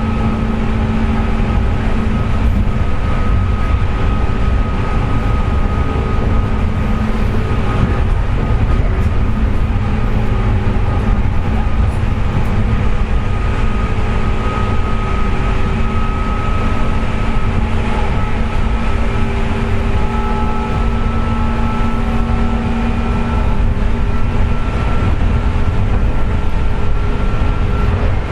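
Running sound inside a JR West 201 series electric train's motor car at speed: a heavy, steady rumble of wheels on rail with a steady high whine on top. The whine is the 'jet sound' of bearings damaged by electrical corrosion.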